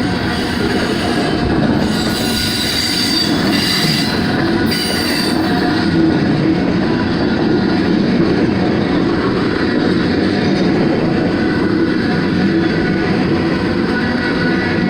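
Freight train of loaded rock hopper cars rolling past, steel wheels rumbling on the rails. A high wheel squeal comes in about two seconds in and fades about three seconds later.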